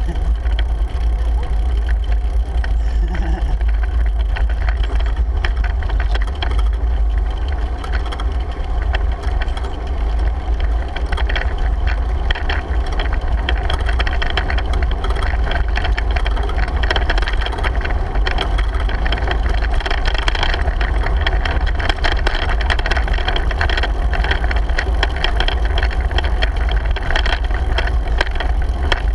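Wind rushing over the microphone of a bicycle rider: a loud, steady low rumble, with tyre and road noise and small ticks and rattles above it.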